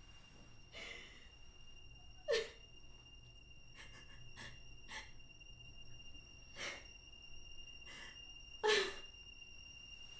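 A woman crying, drawing short, sharp gasping sobs every second or so, the loudest about two seconds in and near the end. A faint steady high-pitched whine runs underneath.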